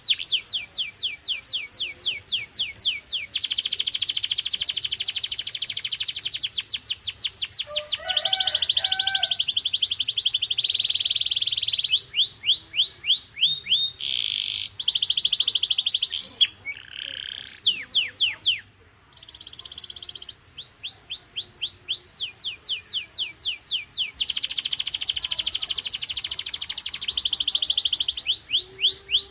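Domestic canary singing a long song of rolls: fast trains of repeated falling notes, changing in speed from one roll to the next, with dense buzzing trills in between. There is a brief pause about 18 seconds in.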